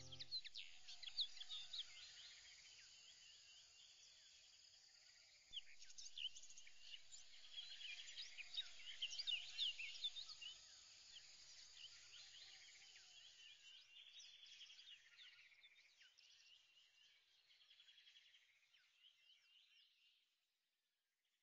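Faint chorus of birds chirping, many quick rising and falling calls overlapping. It swells about five seconds in and fades out shortly before the end.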